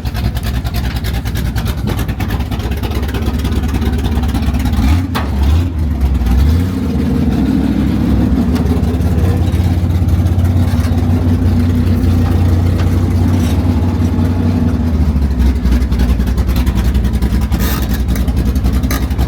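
Monster truck engine running loudly, revving up about five to seven seconds in and then holding a steady drone.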